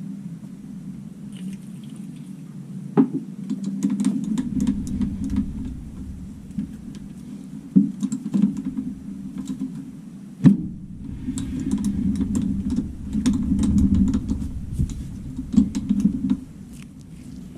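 Metalworking handling sounds: a string of small clicks, taps and scrapes over a steady low machine hum, which deepens from about four seconds in and drops back near the end.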